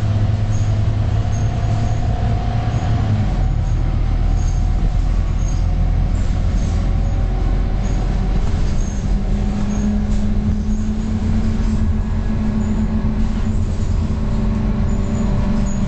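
Scania K230UB city bus's diesel engine and drivetrain running under way, heard from on board. The low engine note drops about three seconds in, as at a gear change. A higher steady drone sets in near ten seconds.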